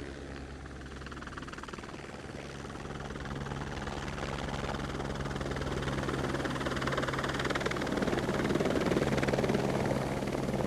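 Aircraft engine droning steadily with a fast low pulsing, growing gradually louder as it draws nearer.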